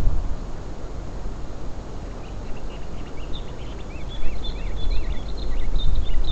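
Wind rumbling on the microphone, with small birds chirping in quick short notes from about two seconds in.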